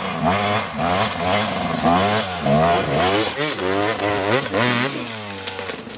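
Dirt bike revving up and down over and over as it claws up a steep rocky climb, the pitch rising and falling about once or twice a second, with scattered knocks from the wheels on rock.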